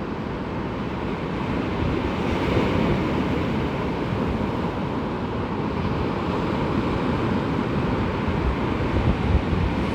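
Surf washing on the beach, mixed with wind buffeting the microphone in a steady, gusty rumble.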